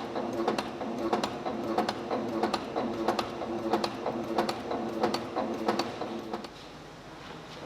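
Button-making machine in a polyester sheet-button line running with a rapid rhythmic clacking, about three to four strokes a second, over a steady mechanical hum. The clacking stops about six and a half seconds in, leaving a quieter steady machine noise.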